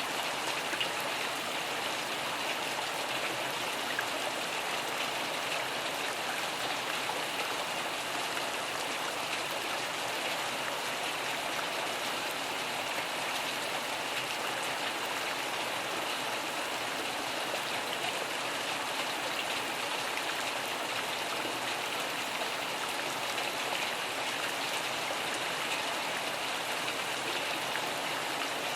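Steady rain, an even hiss of dense drops with no thunder.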